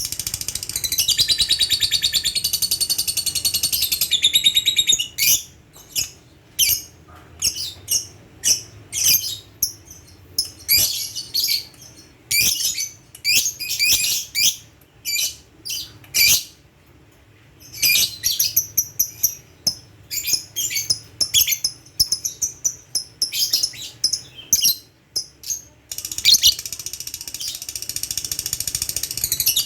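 Lovebird singing: a long, unbroken run of high chattering, the trill that Indonesian keepers call 'ngekek', for about the first five seconds and again over the last four. In between come short separate chirps, several a second, with a brief pause about sixteen seconds in.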